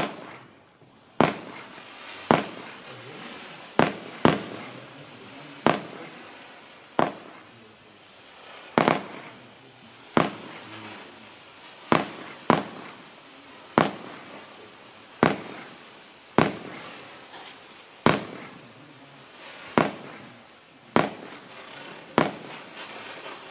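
Celtic Fireworks "Fluff" firework going off as a steady series of sharp reports, roughly one every second and a bit, each followed by a fading tail of noise.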